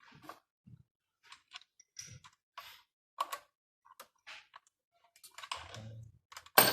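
Irregular small clicks and taps of hand tools working on the bolts of a motorbike engine, ending in one sharp, louder knock near the end.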